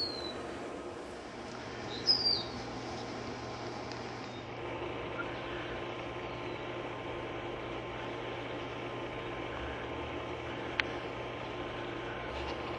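Steady low background hum with two short, falling bird chirps: a brief one at the very start and a louder one about two seconds in. A single sharp click comes near the end.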